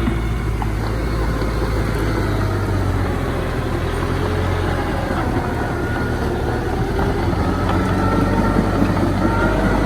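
Diesel engine of heavy earthmoving machinery running steadily under load. Faint high whines come in during the second half, and it grows slightly louder near the end.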